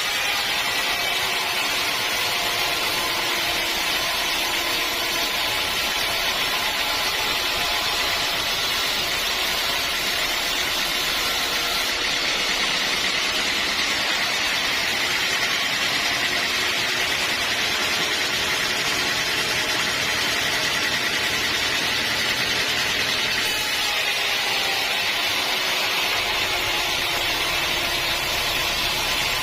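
Band sawmill running steadily, a constant machine drone with no pauses or changes.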